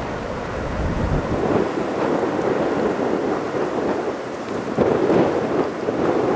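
Wheels of the rear cars of a CSX intermodal freight train rolling on the rails: a steady rumbling noise with a louder surge about five seconds in.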